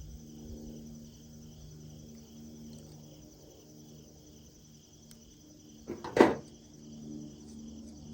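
Steady, evenly pulsing insect chirping, like crickets, over a low hum. About six seconds in comes a single loud knock with a short ring.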